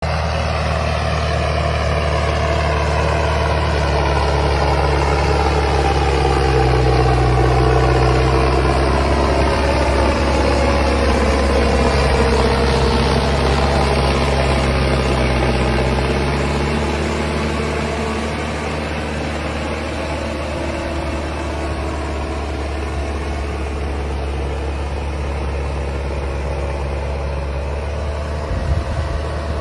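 Tractor engine running steadily, a little louder for a stretch in the middle, where its pitch dips and then rises again.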